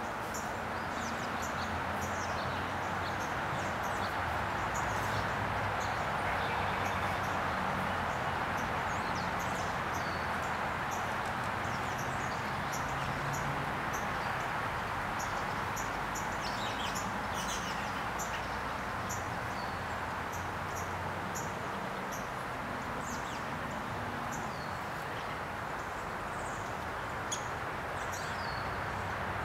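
Outdoor ambience: small birds chirping in short, scattered calls over a steady background hiss.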